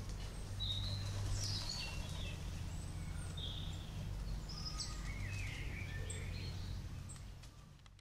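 Wild birds chirping and calling in short, scattered notes over a steady low background rumble, all fading out near the end.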